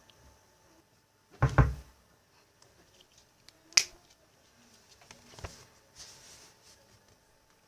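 Household objects being handled: a short clatter of knocks with a dull thud about one and a half seconds in, then a sharp click near four seconds and another click with a thud a little later.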